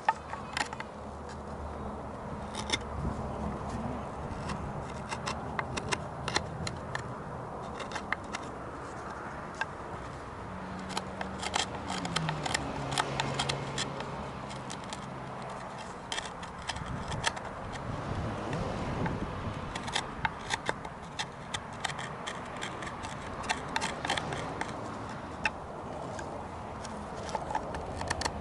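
Hand tool scraping and carving charred wood out of a wooden bowl or dish, an irregular run of scrapes and small clicks. A faint low hum steps down in pitch near the middle.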